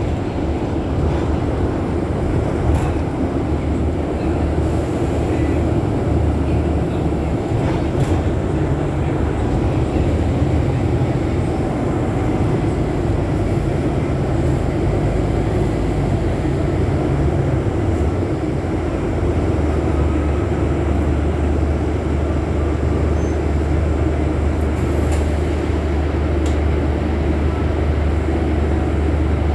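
Scania city bus running on the road, its engine droning steadily under the road noise. The engine note changes and settles onto a lower, steadier hum about two-thirds of the way through.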